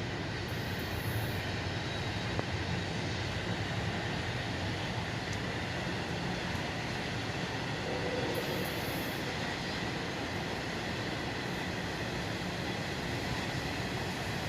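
Freight train rolling past, with the steady, unbroken noise of its cars' wheels on the rails.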